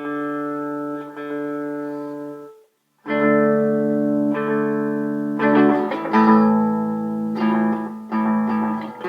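Electric guitar played through an analog delay pedal: sustained chords ring out, stop dead briefly just under three seconds in, then several more chords are struck and left to ring.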